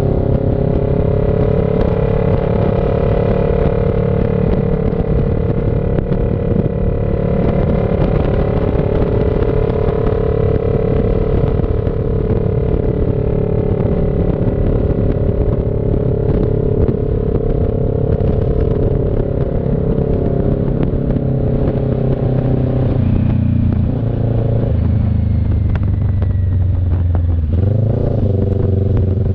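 CFMoto NK400 parallel-twin engine pulling at a steady cruise, its pitch holding level for most of the time. About two-thirds of the way through the pitch drops as the bike eases off, with brief rises and dips in pitch near the end.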